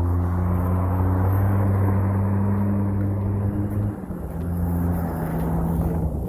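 Inside a moving car: steady engine and road rumble with deep steady low tones that shift pitch a few times, easing somewhat about four seconds in.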